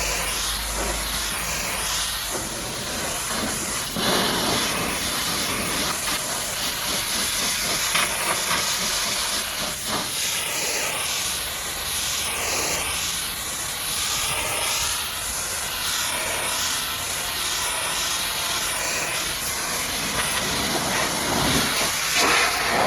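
High-pressure washer jet spraying water onto a muddy truck: a steady hiss whose tone keeps sweeping up and down.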